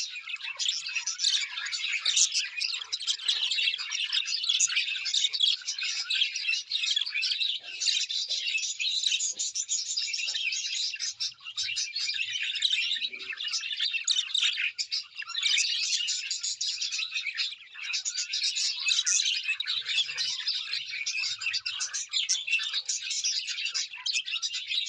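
Many small birds chirping and twittering at once, a dense, continuous high chatter with only brief lulls.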